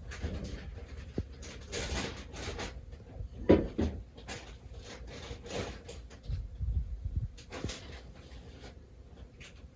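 Scattered knocks and light clatter of handling in a kitchen, with one sharper knock about three and a half seconds in.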